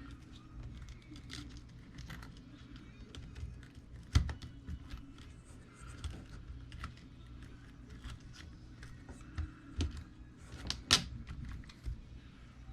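Small clicks, taps and rattles of plastic and metal RC truck parts being handled and fitted by hand, with two sharper knocks about four seconds in and near the end, over a steady low hum.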